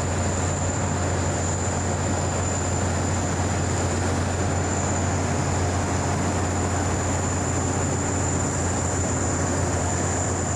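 Steady aircraft engine noise: a constant low rumble with a thin high whine held at one pitch, neither rising nor falling.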